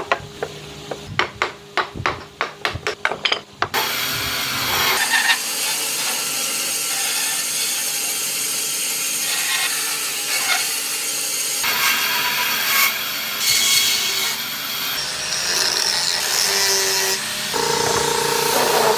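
Woodworking on a carved wooden car body: a run of sharp, irregular taps or knocks on wood, then from about four seconds in, steady, noisy cutting or sanding of wood that changes character abruptly a few times.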